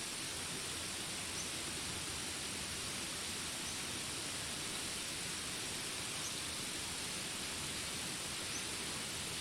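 Steady rain hiss under a continuous high insect drone, with a short high chirp repeating about every two and a half seconds.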